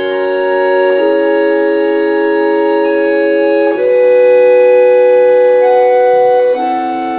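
Concert accordion playing sustained chords in a classical concerto, changing chord about a second in, again near the middle and again near the end.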